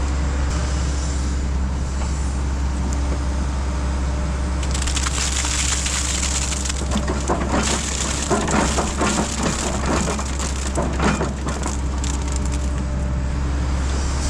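Heavy earthmoving machine's diesel engine running steadily, with a dense run of irregular cracking and crunching from about five seconds in, loudest in the middle and later part.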